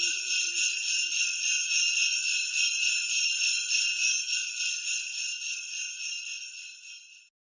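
Sleigh bells shaken in an even rhythm, about three shakes a second, closing out a piece of Christmas music; they fade and stop shortly before the end.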